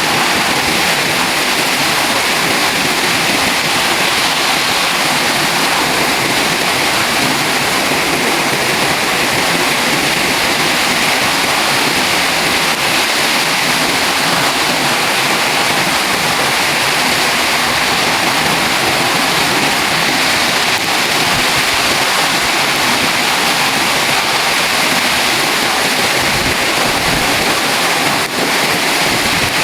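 Heavy rain pouring down in a storm, a loud steady hiss with no let-up, with gusts of wind on the microphone near the end.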